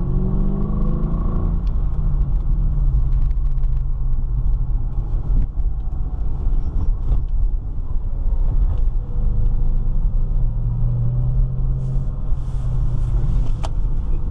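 2007 Ford Mustang GT's 4.6-litre V8 running, its exhaust pitch rising and falling as it accelerates and eases off in the first couple of seconds, then building again later on.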